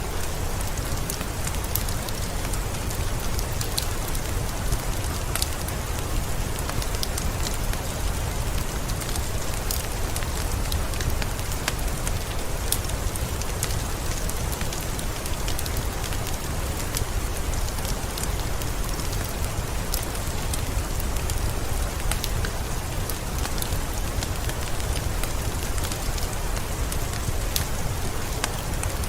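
Steady rain hiss layered with a crackling wood fire: many small sharp pops and snaps scattered irregularly over the rain, with a low rumble underneath.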